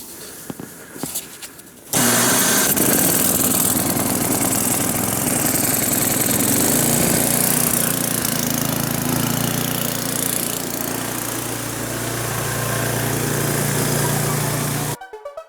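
Gas snowblower engine catching on its electric start about two seconds in, then running steadily until it cuts off suddenly near the end.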